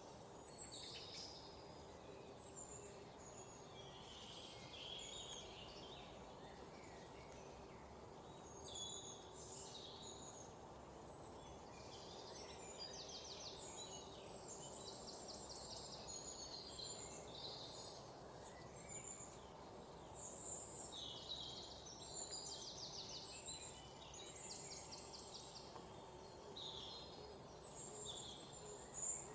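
A chorus of small songbirds chirping and calling over a steady low background hiss, with several rapid trills in the middle. A brief sharp sound comes just before the end.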